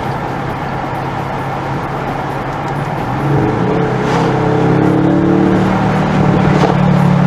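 Bentley Continental GT V8 S's 4-litre twin-turbo V8 through its sports exhaust, running steadily at low revs. About three seconds in it pulls harder, growing louder as the engine note slowly climbs.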